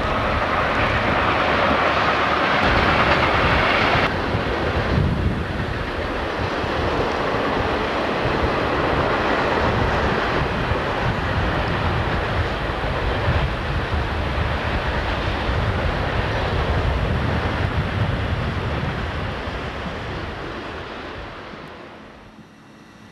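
Conrail diesel freight train passing. The locomotives are loud for the first four seconds and then stop abruptly, leaving the rumble and clatter of freight cars rolling over the rails. This fades away near the end.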